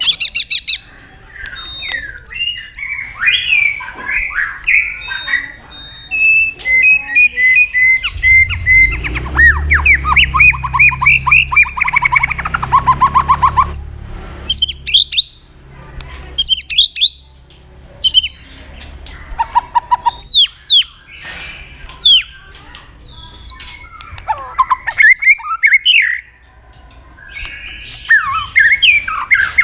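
White-rumped shama singing a loud, varied song: warbled phrases, then a long run of fast repeated notes about a third of the way in, then separate sharp whistles sweeping high and low. A low rumble sits underneath during the run of fast notes.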